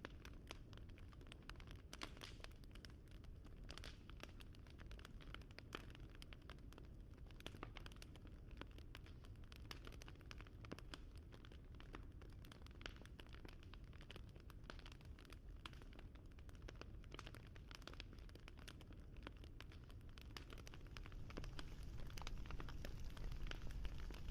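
Wood fire crackling: irregular small pops and snaps over a low, steady rumble of flame, the rumble growing a little louder near the end.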